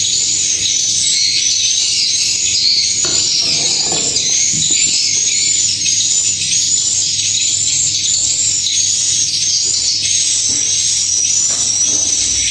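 Swiftlets chirping: a dense, steady, high twitter of repeating chirps, with a faint low hum underneath and a brief rustle a few seconds in.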